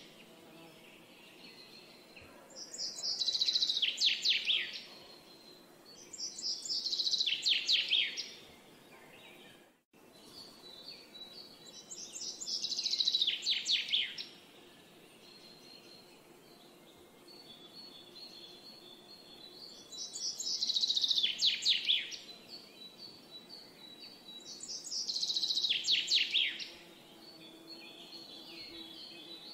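A songbird singing the same short song five times, several seconds apart: each song is a quick run of notes falling in pitch and lasting under two seconds. A faint steady high tone runs between the songs, and the sound cuts out for a moment about ten seconds in.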